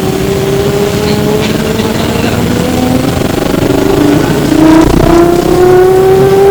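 Electric traction motor of an E902 Flyer trolleybus whining as the bus accelerates, heard from inside the cabin. The whine rises slowly in pitch, drops back about four and a half seconds in, then rises again.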